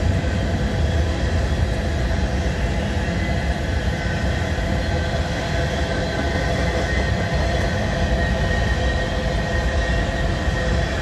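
Freight train cars rolling past close by: a steady, loud rumble of wheels on rail, with faint steady whining tones over it.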